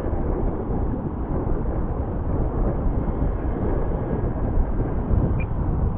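Strong wind buffeting the microphone: a steady low rumbling noise.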